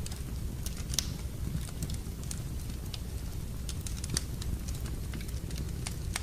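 Wood fire burning in a fireplace: irregular crackles and pops over a steady low rumble, with louder pops about a second in and again about four seconds in.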